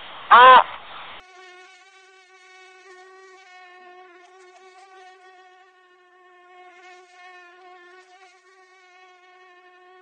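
Mosquito's whine in flight: a steady, slightly wavering hum with a stack of overtones, starting about a second in. Just before it there is a short, loud call that rises and falls in pitch.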